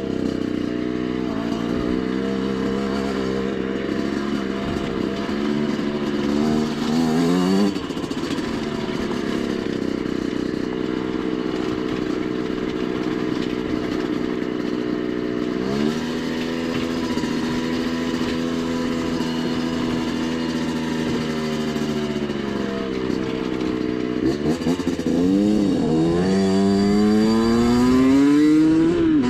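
Rieju MRT 50 dirt bike's 50 cc two-stroke engine running under way, its pitch sagging slowly over long stretches. It revs up sharply about eight seconds in and again around sixteen seconds, then gives several quick revs near the end.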